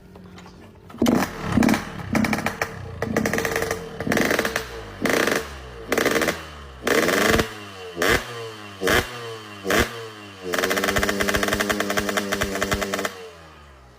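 Yamaha RX-King two-stroke motorcycle engine revved in a rapid series of short throttle blips, each rising and falling, then held at high revs for nearly three seconds before dropping back to idle.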